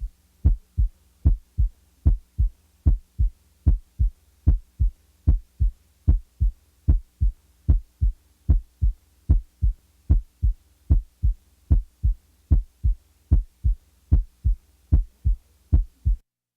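Heart sounds, a steady lub-dub rhythm of about 75 beats a minute, with a loud first heart sound (S1) followed by a softer second heart sound (S2) in each beat. A faint steady hum lies underneath, and the beats stop just before the end.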